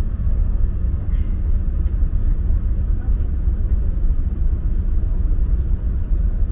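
VIA Rail passenger train running at speed: a steady low rumble with faint, scattered light clicks and ticks.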